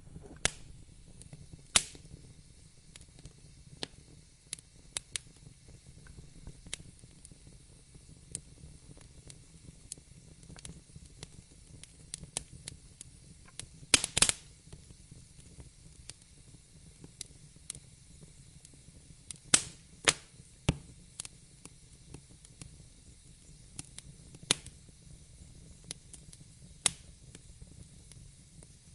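Wood fire in a fireplace crackling, with sharp pops at irregular intervals and a quick burst of loud pops about halfway through, over a steady low rumble.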